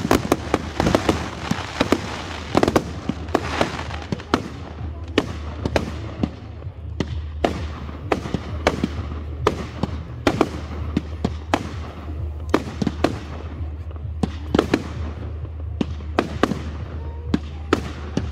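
Aerial fireworks bursting in a rapid string of sharp bangs and crackles. They are densest for about the first two seconds, then come as separate reports several times a second to the end.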